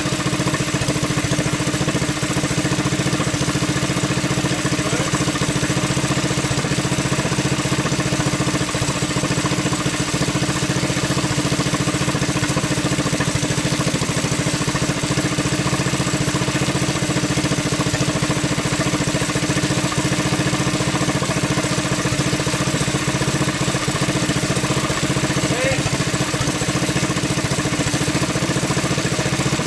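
Honda GX200 single-cylinder four-stroke engine running steadily at a constant speed while driving a dynamometer under test.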